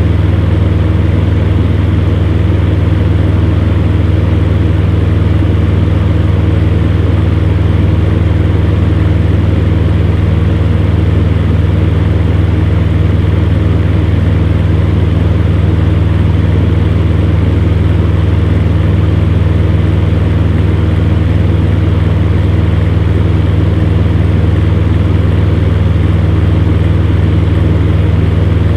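Electric fan heater running steadily: a loud, even low hum from its motor with a rush of blown air over it.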